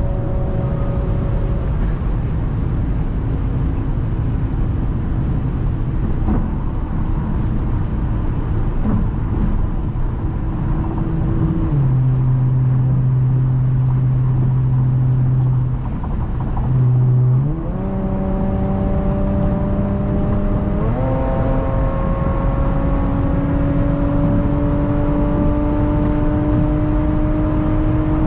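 Straight-piped Audi's engine and exhaust running hard under way. The note holds steady, dips briefly a little past halfway, then steps up in pitch twice and keeps climbing slowly as the car accelerates.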